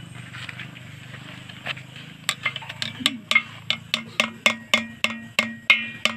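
Repeated sharp metal-on-metal strikes, like a hammer blows on steel with a ringing tail, starting about two seconds in and going at about four a second. Before them there is a steady low hum.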